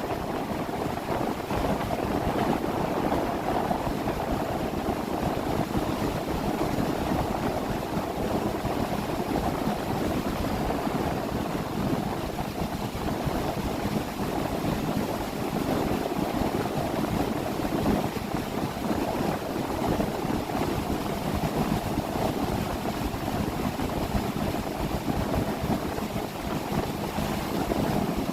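A motorboat running steadily underway: an even engine hum mixed with rushing water and wind on the microphone.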